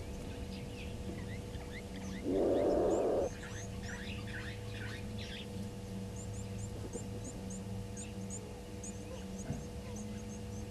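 Small birds chirping and whistling, with one loud, rough, buzzing sound lasting about a second, about two seconds in, from an unidentified source, probably an animal at the waterhole. A low steady hum runs underneath.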